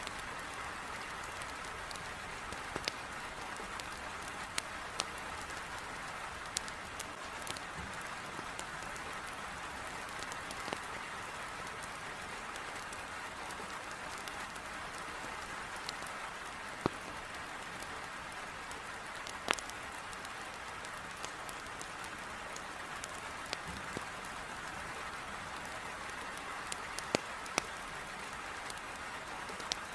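Heavy rain beating steadily on a window, mixed with a wood fire crackling in a fireplace: a dozen or so sharp pops at irregular intervals.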